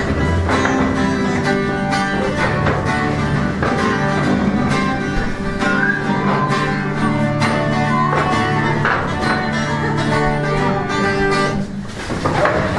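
A lively tune played live on a plucked string instrument for a game of musical chairs, many quick notes, stopping abruptly near the end: the signal for the players to sit down. Voices and laughter follow right after the music stops.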